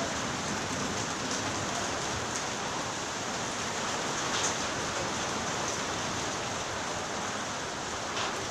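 Steady rain falling, an even hiss with a few louder drops standing out.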